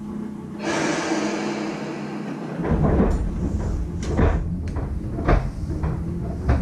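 Electric train pulling away from a stop, heard inside the car: a burst of compressed-air hiss, then from about two and a half seconds in the low rumble of the train starting to move, with several knocks.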